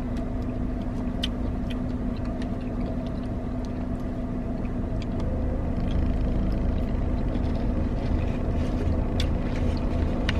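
Steady hum of an idling car heard from inside the cabin, a low rumble with a constant drone, growing a little louder about six seconds in, with a few faint clicks over it.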